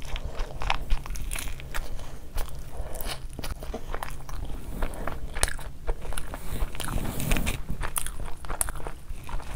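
Close-miked eating: a mouthful of chicken biryani, eaten by hand, chewed with irregular wet smacks, clicks and crunches over a steady low hum.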